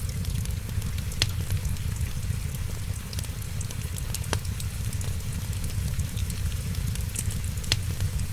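Wood fire crackling steadily over a low rumble, with three sharper pops about a second in, midway and near the end. Rain patters faintly underneath.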